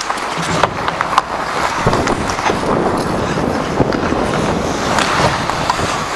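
Hockey skates scraping and gliding, with sharp clacks of sticks and puck scattered through.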